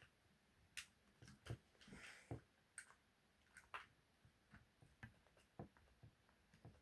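Near silence broken by a string of faint, irregular clicks and light knocks from small RC car parts being handled and worked loose by hand.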